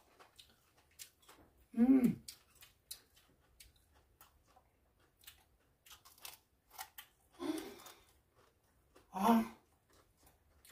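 Crisp crunching and clicking of raw deodeok (bonnet bellflower root) being bitten and chewed, many short sharp clicks throughout. Three brief voiced murmurs break in, about two seconds in, and twice near the end.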